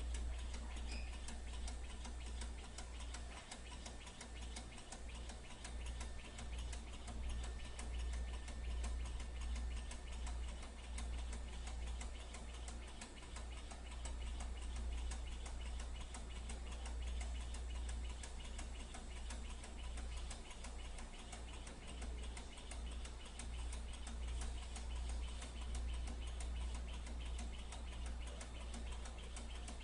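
Small lamina-flow Stirling engine running, its mechanism making a fast, steady ticking over a low hum.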